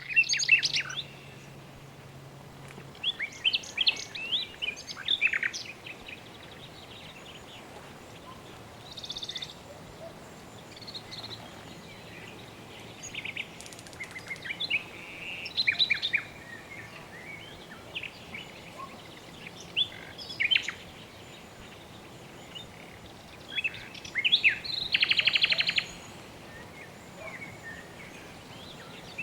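Several birds chirping and calling in short phrases and trills, over a steady soft background hiss.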